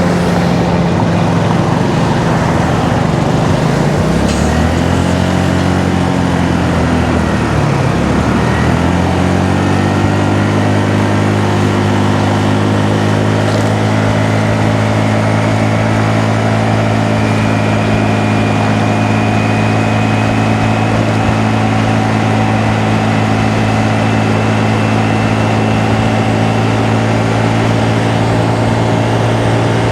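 Honda Navi's small single-cylinder engine running under way, with a steady rush of wind and road noise. About four seconds in the engine note drops and comes back up twice as the throttle eases off and on, then holds a steady cruising pitch that creeps slightly higher.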